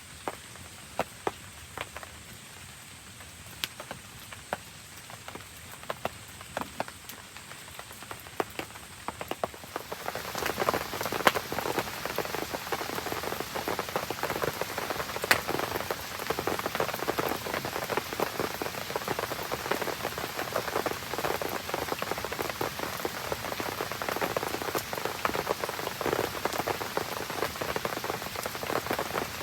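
Rain falling, at first light with scattered sharp ticks of single drops, then about ten seconds in it suddenly becomes much heavier and denser, a steady hiss of many drops.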